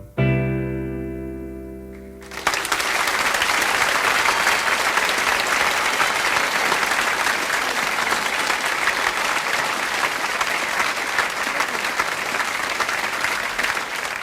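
The last chord of a live song rings out and fades, then a concert audience applauds from about two seconds in. The applause stops abruptly at the end.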